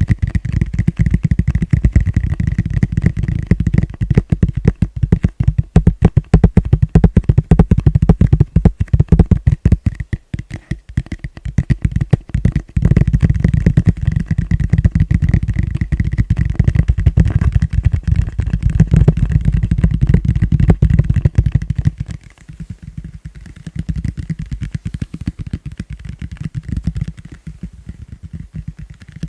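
Fast tapping with the fingers on a plastic bowl: a dense, rapid run of hollow taps with a heavy low end, getting softer for the last several seconds.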